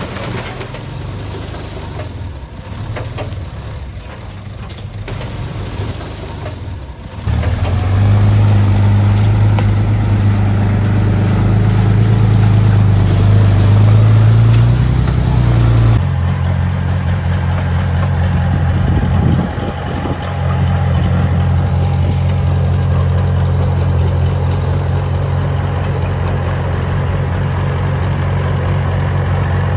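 Diesel engine of a construction machine running, rougher and quieter at first, then a steady loud hum from about seven seconds in. The sound changes abruptly about sixteen seconds in and runs steadily again, with a short dip a few seconds later.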